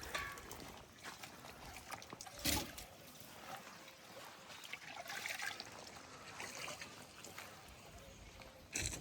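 Water trickling and pouring, with two sharp knocks, one about two and a half seconds in and one near the end.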